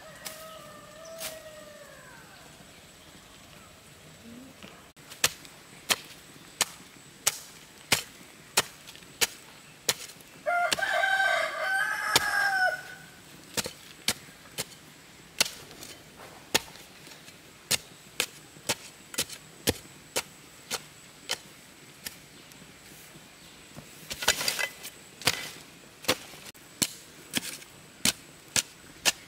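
A rooster crows once, about ten seconds in, over a steady run of sharp knocks, a little under two a second, from hand-tool strikes. A short falling bird call comes at the very start.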